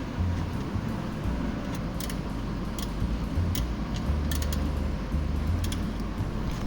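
Sharp metallic clicks and clinks, irregular and some in quick groups of two or three, of hand tools working on the oil drain plug as it is screwed back in, over a low rumble.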